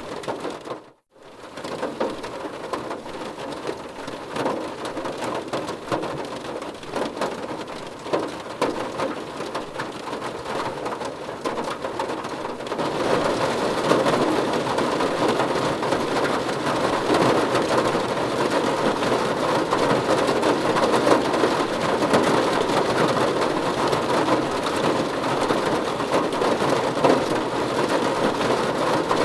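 Steady heavy rain. It drops out abruptly for about half a second around a second in, then resumes, and about halfway through it turns suddenly louder and denser.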